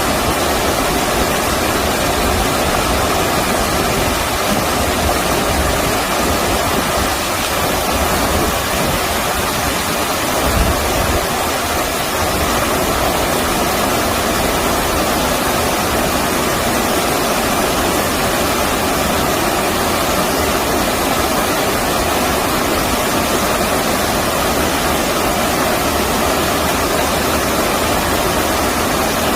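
Stream water rushing steadily over rocks, an even, unbroken noise, with a brief low bump about ten seconds in.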